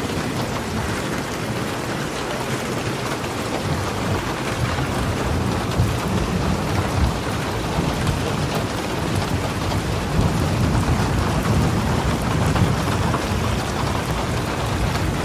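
Steady rain falling, with a low rumble underneath that swells in the second half.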